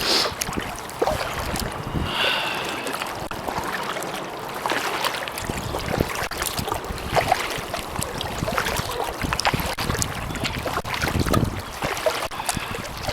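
Kayak paddle strokes splashing and dripping in the water, with many short sharp splashes and wind rumbling on the microphone at times.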